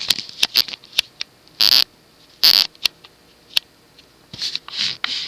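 Handling noises at the wall control: a string of small, sharp clicks and two short rustling bursts, one about a second and a half in and one about two and a half seconds in.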